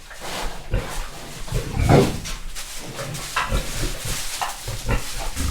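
Pigs grunting in a pen as a boar courts a sow that is not yet in heat, with irregular grunts and the loudest one about two seconds in.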